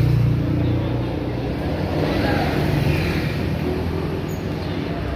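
A motor vehicle's engine running steadily, a low hum, with faint voices in the background.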